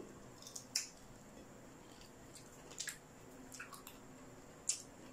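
Mouth noises of eating crispy fried pork knuckle: a handful of short, wet smacks and clicks from chewing and licking fingers, spaced out by a second or so, the sharpest near the start and near the end, over faint room tone.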